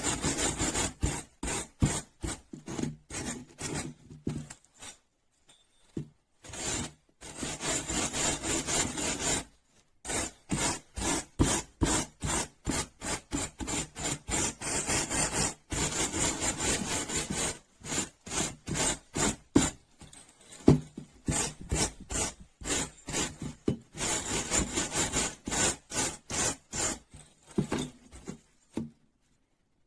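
Brisk back-and-forth rasping strokes, about two to three a second, of a hand abrasive tool scrubbing rust off a steel wrench. There are short pauses about five and ten seconds in, and the strokes stop near the end.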